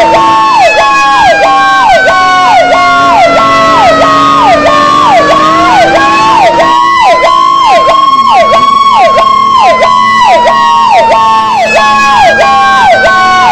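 Fire truck sirens sounding together and loud: one siren repeats a fast falling yelp about two to three times a second, while a second siren wails slowly, sliding down in pitch and then climbing back about five seconds in. A steadier lower tone underneath drops in pitch about eight seconds in.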